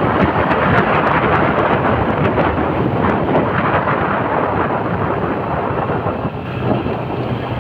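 Wind rushing and buffeting over the microphone on a moving motorcycle, with the engine running underneath. Near the end the wind eases and a steady low engine hum comes through as the bike slows.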